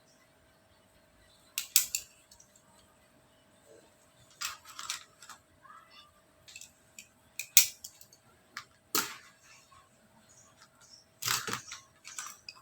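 Desk sounds of someone studying: irregular sharp clicks and short rustles of stationery and paper being handled, a handful of times over several seconds, over a faint steady hum.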